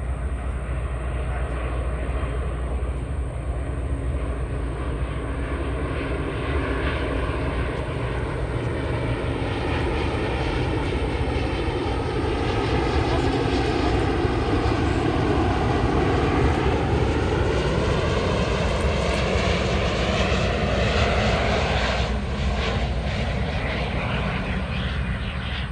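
Jet airliner flying past on approach to land. Its engine noise swells to a peak about two-thirds of the way through, with its tone sweeping down and back up as it passes, then falls away near the end.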